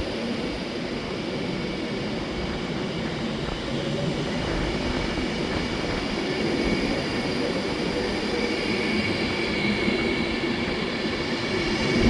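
A train running in the station: a steady rumble with a faint whine, growing slightly louder near the end.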